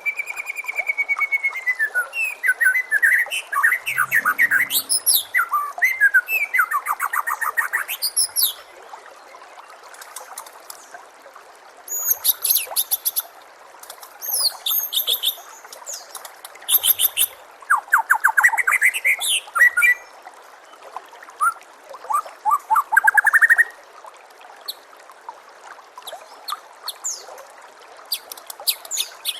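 White-rumped shama (murai batu) singing a varied song of whistles, rapid trills and chirps in bursts. The song is densest in the first eight seconds and again from about twelve to twenty-four seconds, over a steady trickle of running water.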